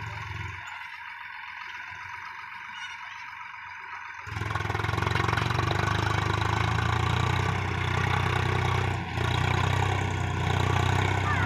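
Tractor engine running steadily. About four seconds in, it abruptly becomes louder, with a deep steady hum, and stays that way apart from two brief dips.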